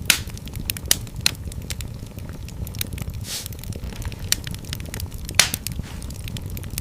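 Wood fire crackling in a fireplace: a steady low rumble from the flames under constant small crackles, with a few sharper pops (twice in the first second and a half, once about five seconds in) and a brief hiss about three seconds in.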